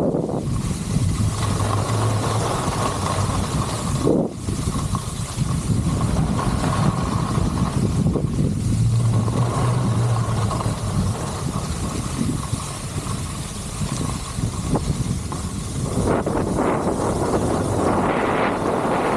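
Wind rushing over the microphone of a skier's camera, with the hiss and scrape of skis sliding on snow; the scraping grows harsher near the end.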